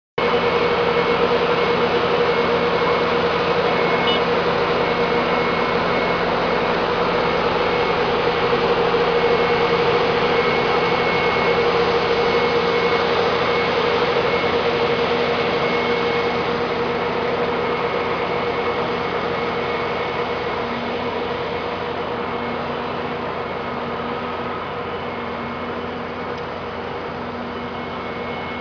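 A machine or engine running steadily with a constant hum, easing off slightly over the last few seconds.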